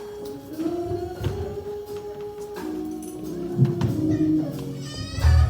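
Church organ playing sustained chords that change twice, with tambourine taps and shakes over it. Near the end a heavier bass comes in along with the start of a voice.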